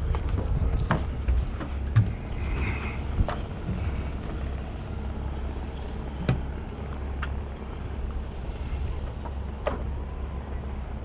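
Scattered knocks and clatters of objects being handled and loaded, over a steady low rumble.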